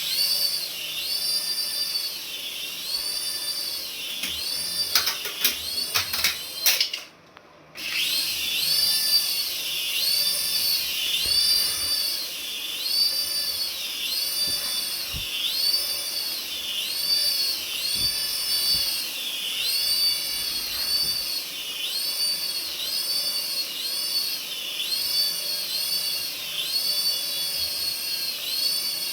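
A battery-powered toy's electronic sound effect: a high whine that rises and falls about once a second, cutting out briefly about seven seconds in.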